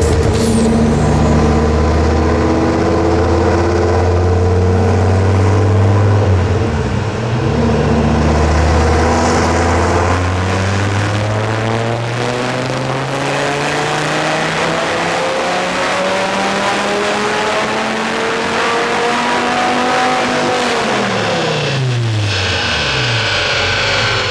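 Dodge Viper Gen III's 8.3-litre V10, fitted with aftermarket intake and exhaust, running a dyno pull. It holds a low note at first, then its pitch climbs steadily through the revs for about twelve seconds. Near the end the revs fall away quickly as the throttle is lifted.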